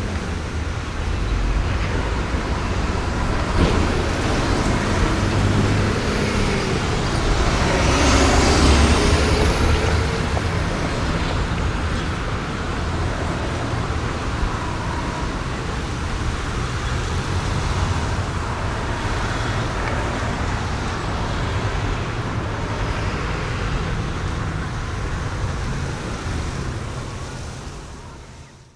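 City street traffic: a continuous wash of car and bus engines and tyre noise, swelling louder as a vehicle passes close about eight seconds in, with a brief high gliding whine above it. The sound fades out at the very end.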